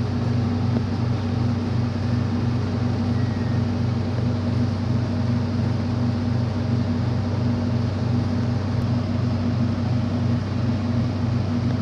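Heavy machinery running steadily: an even, low drone with a faint regular pulse.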